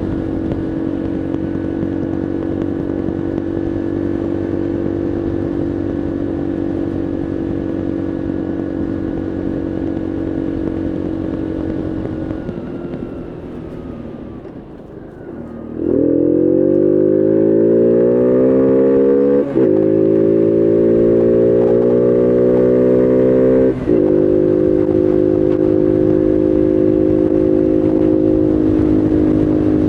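Bullit Heritage 125cc monkey bike's single-cylinder engine while riding. It runs steadily, then eases off with the pitch falling. About halfway through it accelerates, the pitch climbing through two quick gear changes, then settles to a steady cruise.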